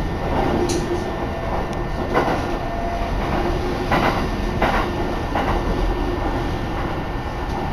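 Steady rumble of a moving Shinetsu Line train heard from inside the carriage, with several sharp clacks from the wheels on the track.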